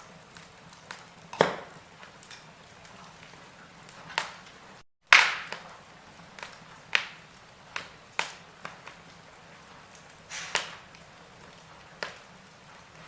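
Wood fire burning in a fireplace, crackling with sharp irregular pops every second or so over a faint steady hiss. The sound cuts out completely for a moment about five seconds in.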